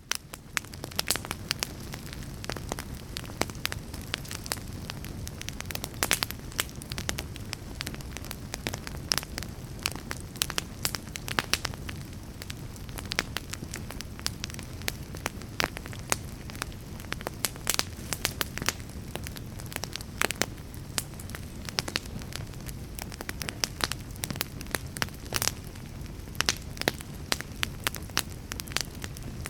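Fire crackling: frequent irregular sharp pops and snaps over a low, steady rumble, fading in at the start.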